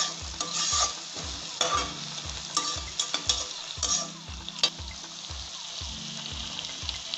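Chopped tomatoes and onions sizzling in oil in a kadai, with the sharp scrapes and taps of a spatula stirring them as the tomatoes cook down to a soft paste. A steady low beat of background music runs underneath.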